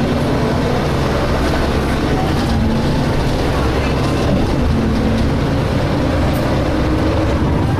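The diesel engine of a DAF SB220 bus with Ikarus Polaris bodywork, heard from inside the cabin while the bus is under way. It runs with a steady low drone, and whining tones drift slowly up and down over it: the vacuum-cleaner-like "hoovering" sound these buses are known for.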